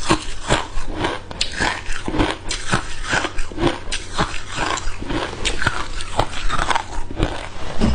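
Hard ice cubes being bitten and chewed close to the microphone: a steady run of loud, sharp crunches, about three a second.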